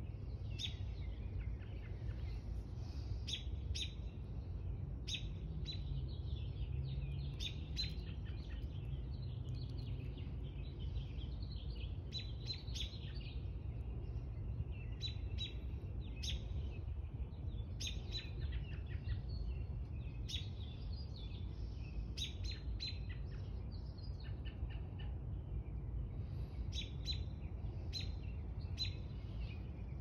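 Short, high bird chirps in quick clusters every second or two, over a steady low rumble.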